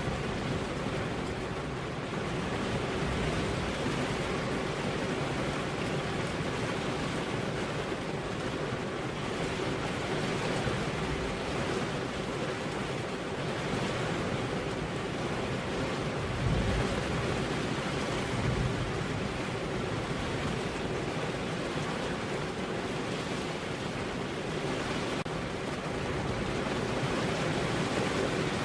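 Steady rain-and-wind ambience, an even rushing hiss with no distinct drops or gusts. About two-thirds of the way in, a brief low swell rises, like a distant rumble.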